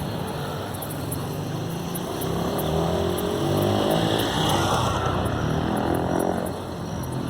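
A motor vehicle's engine passes by. It grows louder and rises in pitch toward the middle, then falls and fades, over a steady rushing noise.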